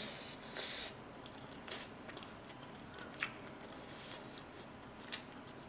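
Faint, close-miked chewing of a mouthful of food: soft, wet mouth sounds with a few light smacks about a second apart.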